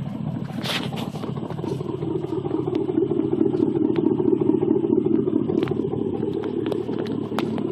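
2002 Z71 pickup's 5.3-litre V8 running through true dual 2.25-inch straight pipes with the factory catalytic converters kept. The exhaust swells in a slow rev between about two and four seconds in, holds, then settles back a little.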